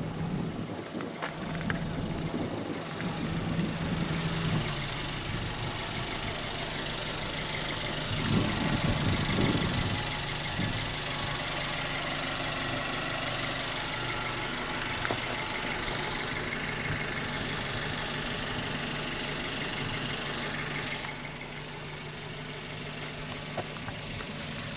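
Toyota TownAce truck's 1.5-litre petrol engine idling steadily, with a briefly louder stretch about eight seconds in.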